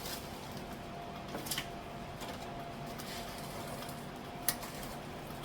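A few light, isolated clicks and taps of kitchen items being handled, over a faint steady hum with a thin steady tone.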